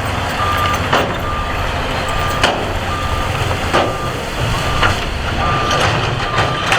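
Reversing alarm on heavy earthmoving machinery beeping steadily, about one beep a second, over a running diesel engine, with sharp clanks every second or so.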